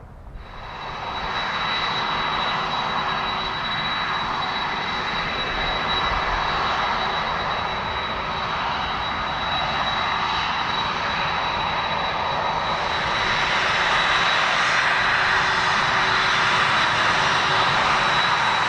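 Jet airliner engines running at high power, a steady rush with a high, level whine over it, growing louder about thirteen seconds in.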